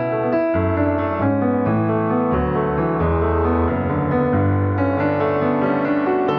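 Piano music: held chords over low bass notes, changing about once a second, at a steady level.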